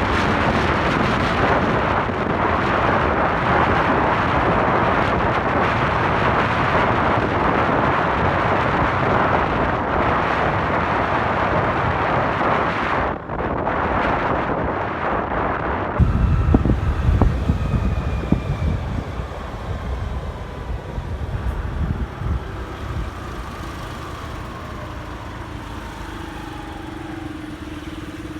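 Wind rushing over the microphone of a moving motorcycle. About halfway the wind noise drops off sharply, leaving low engine rumble and falling tones as the bike slows, and a steady engine hum near the end as it idles.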